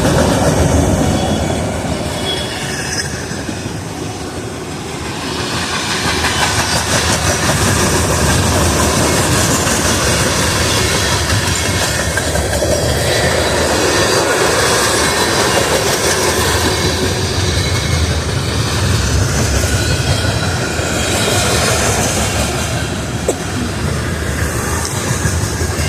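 Freight train cars rolling past, a steady loud rumble of steel wheels on rail that dips briefly about four seconds in.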